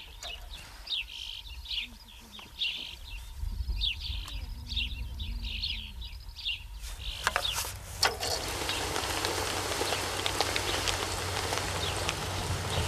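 A small bird chirping over and over in short falling notes, over a low outdoor rumble. About eight seconds in, a steady rushing noise takes over and grows louder, like road traffic approaching.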